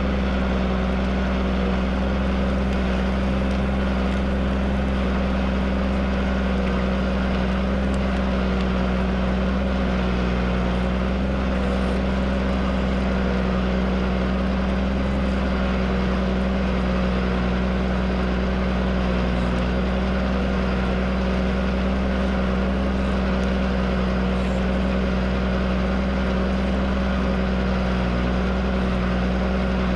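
Tractor engine running steadily under load, a constant unchanging drone while pulling a plough.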